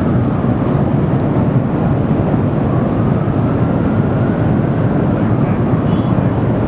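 Ruptured underground steam main venting without pause: a steady, loud rumbling roar.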